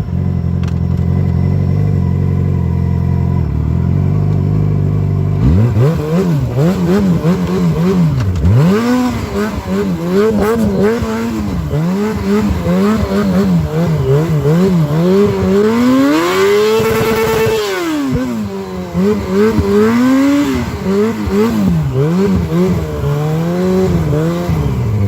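Sportbike engine running at low revs for about five seconds, then revved up and down over and over in the snow, with one long high-rev pull about two thirds of the way in. The bike is stuck: its rear wheel spins in place in the snowdrift while the speedometer reads about 30 km/h.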